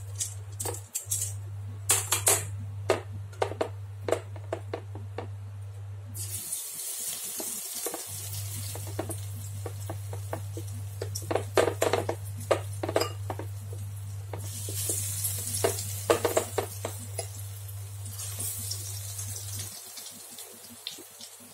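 Egg-battered slices of khanom kheng sizzling in hot oil in a wok. The sizzle starts about six seconds in and swells in waves as more pieces go in. Tongs click against the pan and bowl throughout, over a steady low hum.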